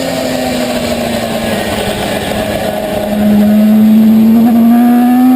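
Racing motorcycle engine at high revs, its pitch sagging slightly and then climbing steadily as it accelerates, growing louder about three seconds in.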